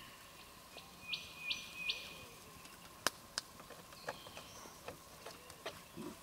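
Birds calling, with three short high notes in quick succession about a second in and fainter chirps after. Two sharp clicks come a moment apart around three seconds in.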